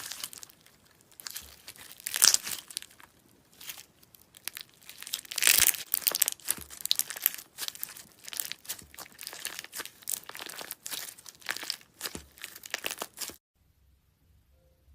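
Slime being squeezed, stretched and pulled apart by hand, in irregular crackling, tearing bursts that stop suddenly near the end.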